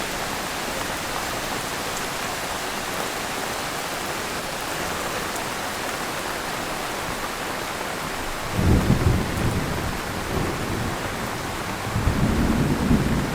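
Heavy rain falling steadily, with two low rumbles of thunder: one about eight and a half seconds in, and a second near the end.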